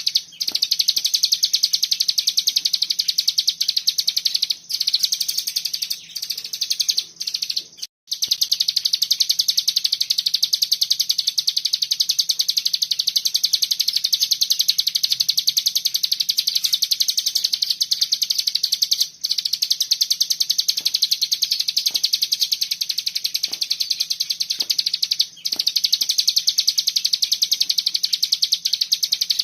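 Cigun songbird singing in the 'bren' style: a dense, rapid, almost unbroken trill of high chirps that pauses only briefly a few times. A faint steady low hum lies underneath.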